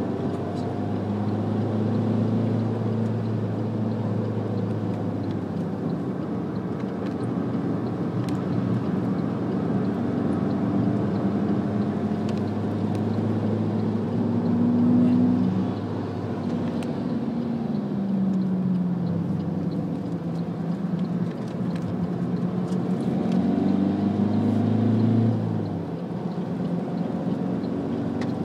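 Alfa Romeo MiTo's engine heard from inside the cabin under hard driving, its note climbing under acceleration and dropping sharply twice, about halfway through and near the end, over steady road and wind noise.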